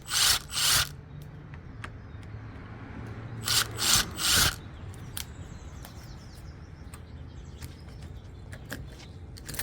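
Short, loud rasping strokes of a hand tool working wood, typical of fitting a deadbolt into a door: two right at the start and three more about three and a half seconds in, over a faint low hum.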